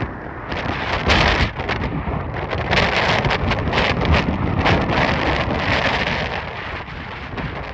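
Strong gusting wind buffeting the microphone, a rough rumbling roar that swells and eases in gusts.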